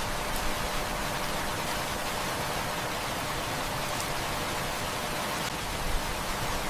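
Steady, even hiss of heavy rain, with a few faint, sharp crackles from a wood fire.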